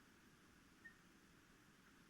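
Near silence: a faint steady hiss, with one brief, faint high-pitched peep a little before the middle.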